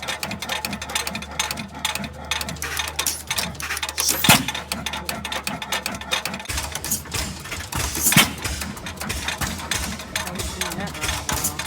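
Antique stationary engine running, its valve gear and mechanism clattering with rapid clicks, with a louder bang about every four seconds.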